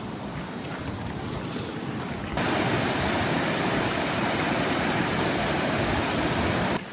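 Rushing water of a fell stream, a steady hiss. About two seconds in it jumps abruptly to a louder, closer rush, then cuts off just before the end.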